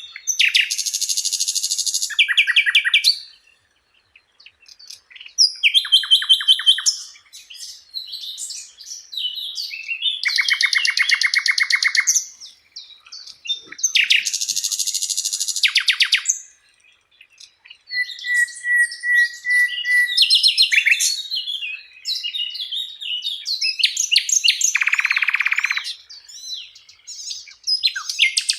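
Sikatan londo flycatcher singing in a varied series of phrases: very fast buzzy trills and twittering chatter broken by short pauses, with one steady whistled note about two-thirds of the way through.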